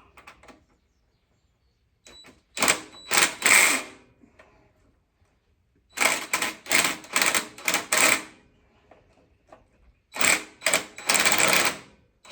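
Ratchet tool tightening engine mounting bolts: three bursts of rapid clicking, each a second or two long.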